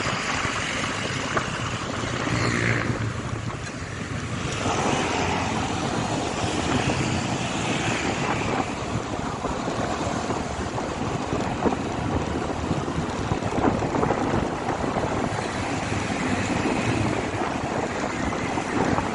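Wind rushing over the microphone of a moving motorcycle, with the engine and road noise running underneath.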